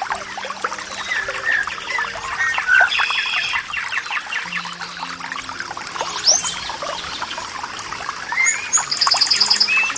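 Water trickling and splashing steadily, with small birds chirping in short calls and a quick trill near the end. Soft sustained music notes hold underneath.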